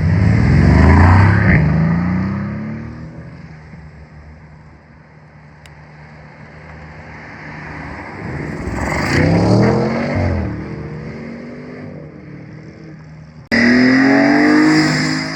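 High-performance sports car engines accelerating hard and revving past, their pitch climbing and falling. One loud pass comes in the first couple of seconds and another around the middle, then a sudden loud high rev starts near the end.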